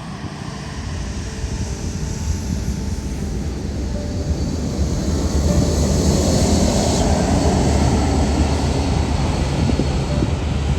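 Jet airliner engines rumbling with a rushing roar, growing steadily louder over the first five or six seconds and then holding loud.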